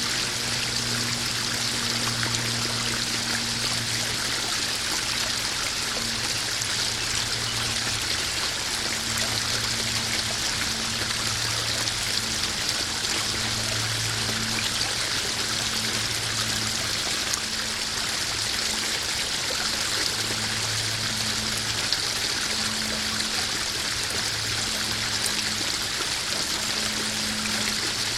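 Koi pond waterfall: water spilling and splashing steadily into the pond. A low hum underneath fades in and out.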